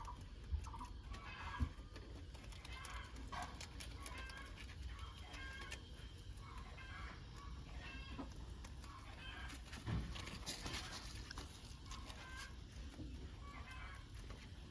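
Chickens clucking faintly in short, repeated calls, with a few dull knocks, the sharpest about a second and a half in.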